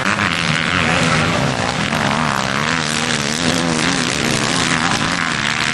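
Motocross bikes racing, several engines running hard together and wavering up and down in pitch as the riders work the throttles.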